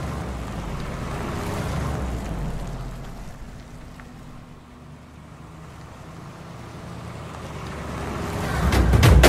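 Car engines and tyre rumble as cars race along a road, swelling to a peak about two seconds in, fading, then building again. Near the end, fast, loud drum hits come in.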